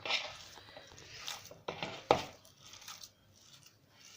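Paneer being crushed by hand in a mixing bowl: soft crumbling and squishing broken by a few sharp clicks and knocks, the strongest about two seconds in.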